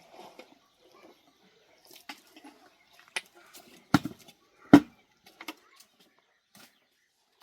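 Scattered small clinks and knocks of objects being handled, with two louder knocks a little under a second apart about four seconds in.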